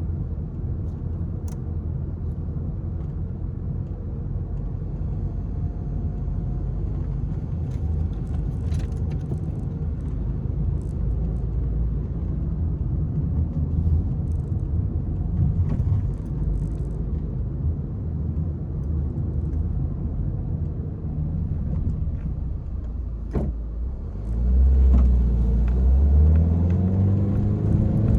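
Peugeot 301 driving, with a steady low engine and road rumble. About four seconds before the end the engine speeds up and its pitch rises as it accelerates.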